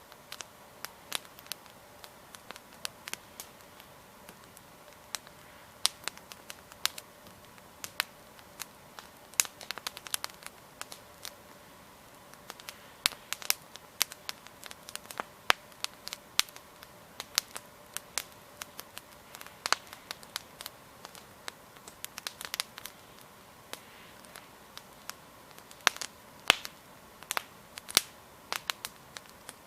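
Wood campfire burning, its logs crackling: sharp, irregular snaps and pops, at times several a second, over a faint steady hiss.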